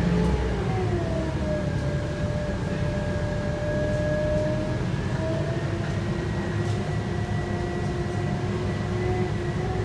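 Scania K230UB bus with its 5-cylinder Scania DC9 diesel and ZF 6-speed automatic under way: a steady low engine and road rumble with a drivetrain whine on top. The whine drops in pitch about a second in, then holds steady with small shifts.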